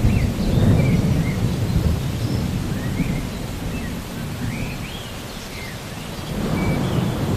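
Rain falling steadily with rolling thunder rumbling low, heavy at the start, easing off in the middle and building again near the end; short high chirps sound over it now and then.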